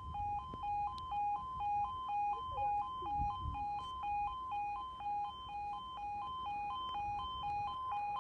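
UK level crossing alarm sounding its two-tone yodel, switching between a high and a low note about two and a half times a second without a break: the warning that the barriers are down for an approaching train.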